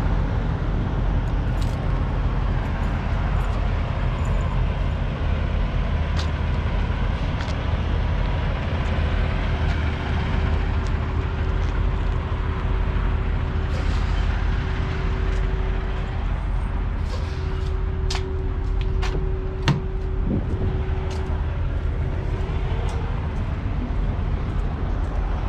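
Steady low rumble of idling diesel semi-truck engines, with a faint steady hum through the middle and a few sharp clicks near the end.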